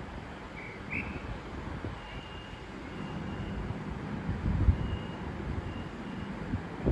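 A train running through the station with a steady low rumble, wind buffeting the microphone in gusts, and a few faint high thin tones over the top.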